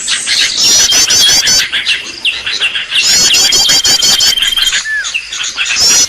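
Loud bird-lure recording of songbird calls: a phrase of quick, high, hooked chirps repeats about every two and a half seconds over a steady high trill, with more short chirps between.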